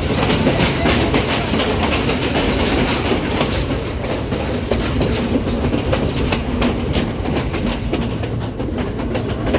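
Passenger train running at speed: a steady rumble with its wheels clattering over the rail joints in a continuous clickety-clack.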